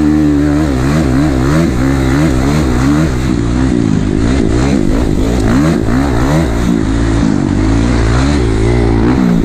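Kawasaki KX450 dirt bike's single-cylinder four-stroke engine under way, its revs rising and falling quickly and over and over as the throttle is worked.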